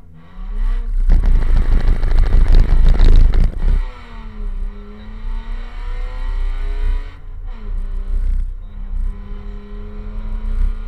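BMW E46 rally car engine, heard from inside the cabin, launching hard from the stage start. It makes a loud, harsh rush for the first few seconds, then its pitch climbs through the gears, dropping back at shifts about seven and eight and a half seconds in.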